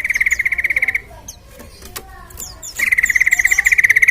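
Yellow-vented bulbul (trucukan) singing: two rapid rattling trills held at one pitch, the first about a second long and the second starting near the middle and running over a second, with fainter high chirps between.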